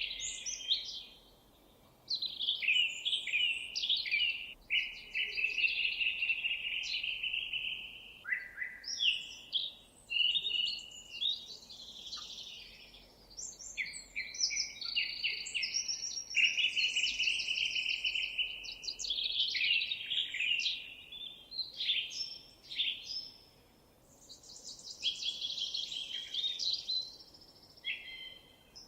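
Songbirds singing, with rapid trills and chirping phrases that overlap almost without a break, apart from short lulls about two seconds in and near the end.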